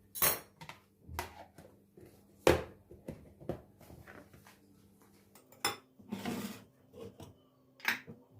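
Dishes and cutlery being handled: a string of separate clinks and knocks, the loudest just after the start and at about two and a half seconds, with a longer scraping rattle a little past the middle. A faint steady hum runs underneath.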